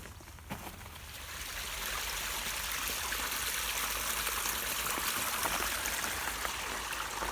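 Small stream running, a steady rush of water that grows louder over the first couple of seconds and then holds.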